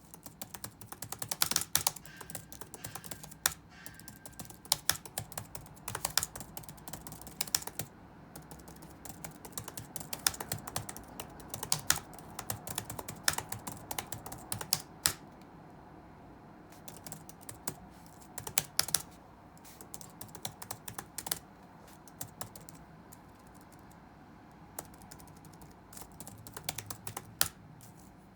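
Touch-typing on a computer keyboard: rapid runs of key clicks in bursts, with short pauses and a longer lull a little past two-thirds of the way through. A few keystrokes land noticeably louder than the rest.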